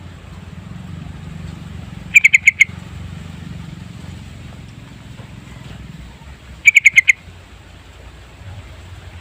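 Sooty-headed bulbul (trucukan) calling: two short bursts of about five quick, sharp notes each, some four and a half seconds apart, over a steady low hum.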